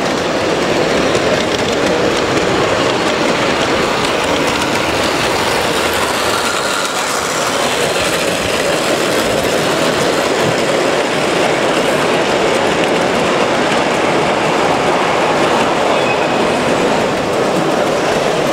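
Train running along the rails: a steady, loud rumble of wheels on track with some clickety-clack.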